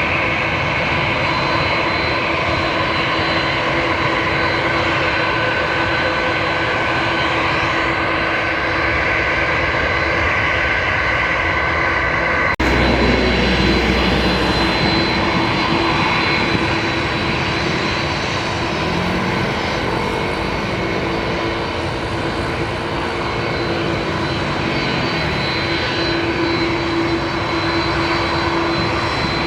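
Airliner engines running with a steady whine over a dense rush of engine noise. The sound changes abruptly about twelve seconds in, with a brief low rumble just after.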